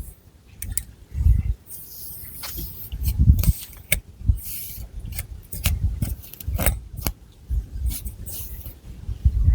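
Long fingernails scratching the scalp and raking through thick long hair close to the microphone: irregular scratchy rustles with many sharp nail clicks and deep rubbing rumbles.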